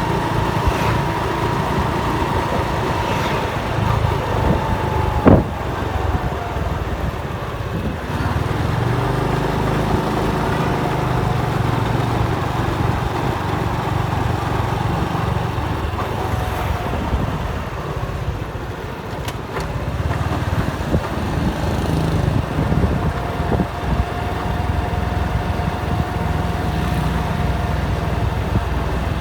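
Motorcycle engine running steadily while riding, with a faint steady whine above the drone and a single sharp knock about five seconds in.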